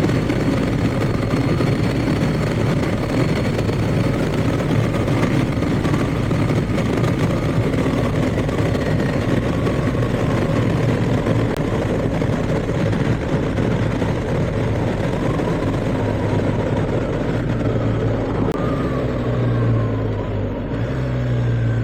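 BMW R1250GS boxer-twin engine running under way, with wind and road noise over the microphone. In the last few seconds the wind hiss drops and the engine note falls as the bike slows.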